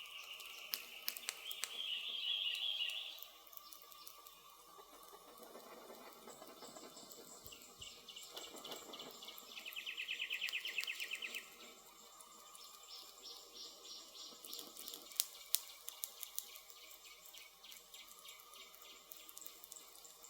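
Campfire crackling, with scattered sharp pops of burning wood and two stronger pops about fifteen seconds in. Over it, forest ambience with two loud trilled calls, one about two seconds in and one about ten seconds in, each lasting a second or two.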